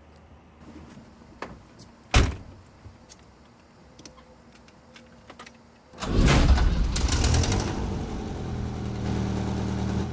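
A car door shuts once with a sharp thud, amid a few small clicks inside the car. About six seconds in, a BMW E21's engine starts, loud for a second or so, then settles into a steady idle.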